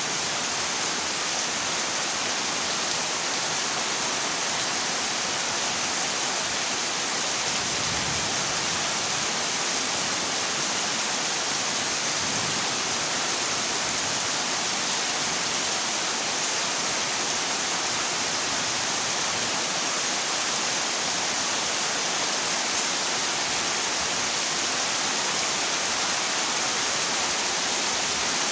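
Heavy rain on a zinc sheet roof: a steady, even hiss with no let-up.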